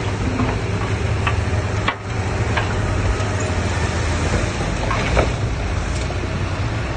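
Heavy earthmoving machine's diesel engine running with a steady low rumble, with a few scattered knocks and clanks.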